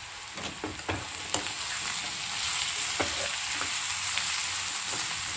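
Ivy gourd slices frying in oil in a kadai, sizzling as they are stirred and turned with a slotted spatula, with scattered clicks and scrapes of the spatula against the pan. The sizzle grows louder about a second in as the stirring gets going.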